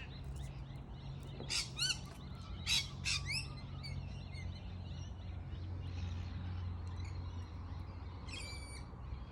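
Birds calling: several short rising chirps in quick succession a second or two in, then a brief run of repeated notes near the end, over a low steady hum.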